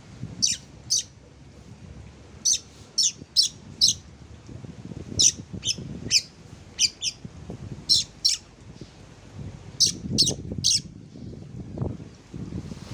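Oriental magpie-robin giving short, sharp call notes in quick pairs and runs of three or four, repeated every second or two, over a low rumble.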